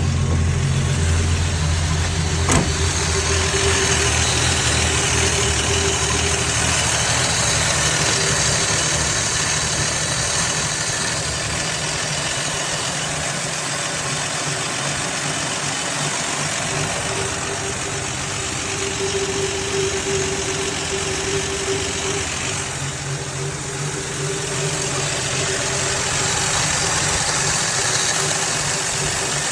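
Plymouth Belvedere's six-cylinder engine idling just after a cold start, with the choke partly closed. A short click sounds about two and a half seconds in.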